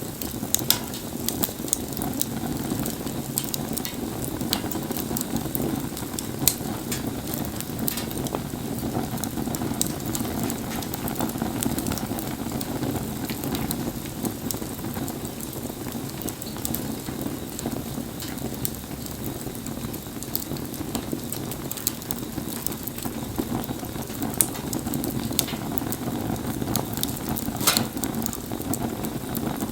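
Wood campfire burning in the rain: a steady hissing with frequent sharp crackles and pops.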